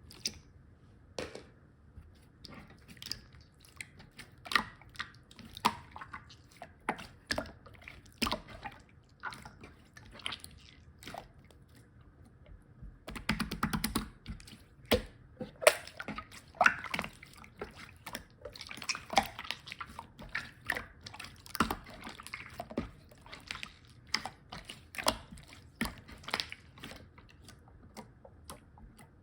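Slime being squeezed and stretched by hand, giving irregular sticky clicks and small air-bubble pops, with a quick rapid run of clicks about halfway through.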